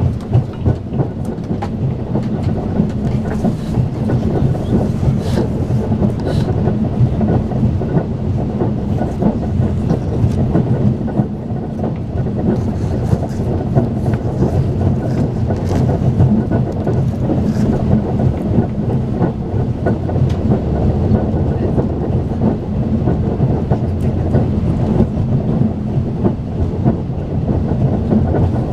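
Steady rumble of a Talgo passenger coach running at speed, heard from inside the carriage: wheel-and-rail noise with scattered light clicks.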